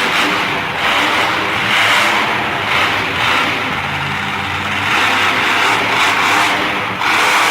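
Monster truck engine revving loud and hard, the noise swelling and easing every second or two.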